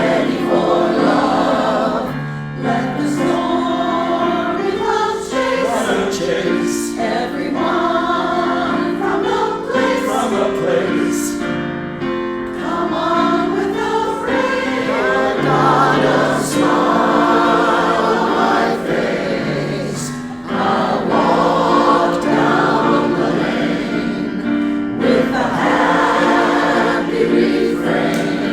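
A chorus singing in harmony, holding and moving through chords with a low bass part beneath.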